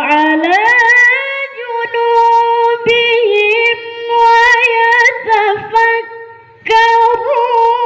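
A child's high voice reciting the Qur'an in a melodic, ornamented style, drawing out long wavering notes. There is a short break for breath about six seconds in, and then the recitation continues.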